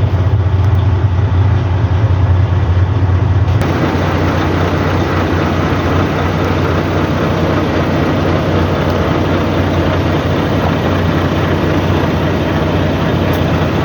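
Volvo dump truck's diesel engine idling with a steady low drone. About three and a half seconds in, a steady hiss starts suddenly on top of it and carries on.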